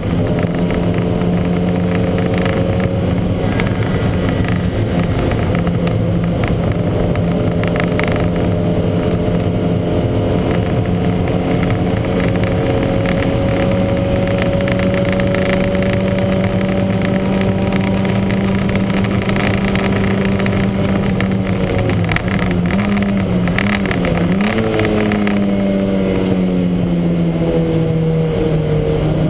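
Lancia Montecarlo's twin-cam four-cylinder engine running under load at racing speed. Its note holds a steady pitch for most of the time, wavers and dips about three-quarters through, rises again sharply, then falls gradually near the end. The engine carries a huge misfire.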